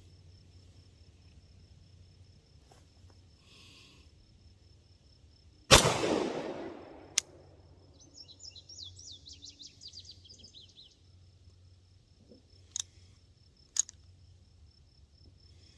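A single shot from a prototype semi-automatic pistol, loud and sudden with a decaying echo, followed by a short click. The slide may not have cycled all the way to the rear, leaving a failure to feed. A bird chirps a few seconds after the shot.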